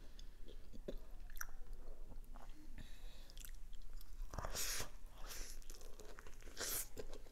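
Close-miked eating sounds: a bacon cheeseburger slider is bitten into and chewed, with small wet mouth clicks, then two louder crunchy bites, one about four and a half seconds in and one near the end.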